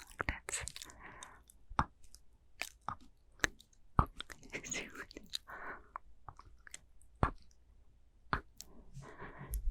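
Close-miked ASMR mouth sounds: wet, irregular tongue and lip clicks and smacks, with a few soft breathy whispers between them.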